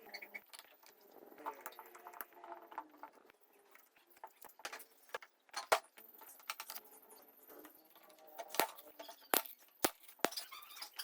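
Small metal parts and hand tools clinking and tapping during hand work on motorcycle parts: scattered sharp clicks at irregular intervals, a few louder knocks in the second half.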